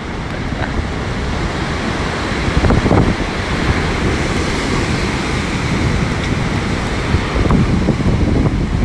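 Storm surf on a pebble shore with strong wind buffeting the microphone: a steady roar of breaking waves and gusts, swelling about three seconds in.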